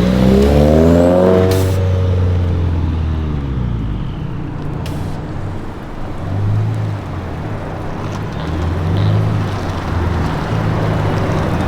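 Car engine rising in pitch and falling back over the first couple of seconds as the car creeps into position, then running at low revs with two gentle swells.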